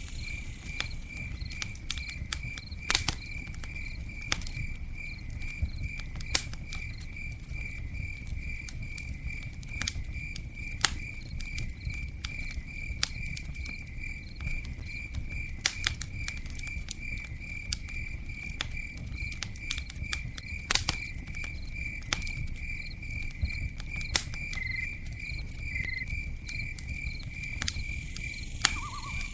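Campfire crackling, with sharp pops at irregular moments over a low steady rumble. A cricket chirps steadily the whole time in an even, unbroken rhythm.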